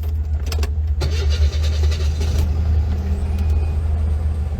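A steady low rumble, with a rush of hiss from about one to two and a half seconds in.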